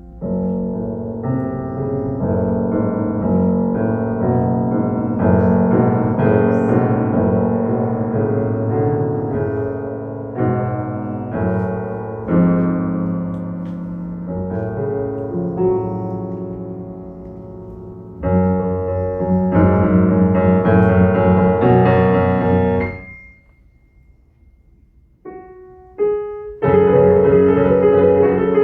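Solo piano improvisation: dense chords played loudly, breaking off abruptly about 23 seconds in to a short pause with a few single notes, then loud chords again near the end.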